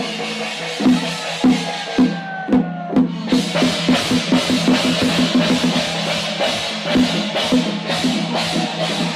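Percussion music: drums beating about twice a second over a constant wash of cymbals.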